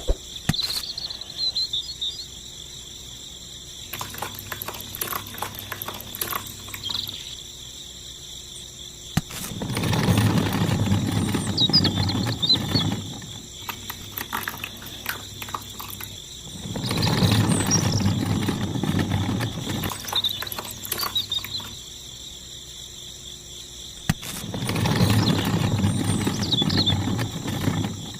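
Insects, crickets among them, chirping steadily in the background. Three times a loud rushing, rumbling noise rises for three or four seconds and dies away again.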